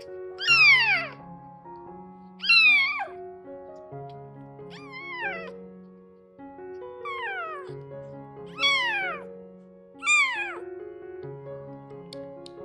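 A very young kitten mewing loudly while being syringe-fed milk: six high cries, each falling in pitch, about one every two seconds. Soft background music plays underneath.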